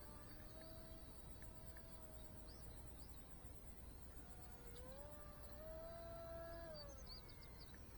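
Faint whine of a small RC plane's brushless motor and 3-inch propeller in flight. The tone holds steady, rises about five seconds in, then drops back near the end as the throttle or distance changes.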